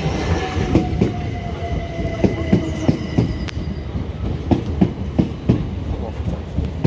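Electric passenger train running through the station, its wheels clacking over rail joints and points in quick pairs of knocks, over a steady rumble with a faint tone sliding slightly downward in the first few seconds.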